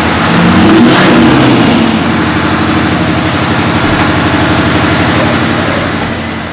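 Scania R730's 16-litre V8 diesel sounding through a side-pipe exhaust, revving up about a second in, then running steadily before fading near the end.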